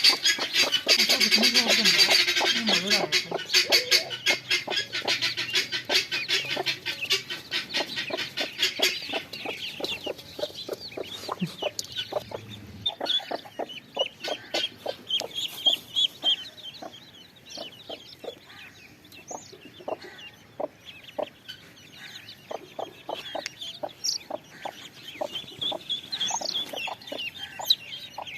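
Chickens clucking and calling, over a dense run of rapid high bird chirping that fills the first nine seconds or so and then thins out to scattered short clucks and calls.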